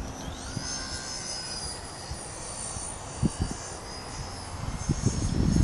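Aircraft engines running with a high whine that rises in pitch about half a second in, then holds steady over a low rumble, with a few dull low thumps.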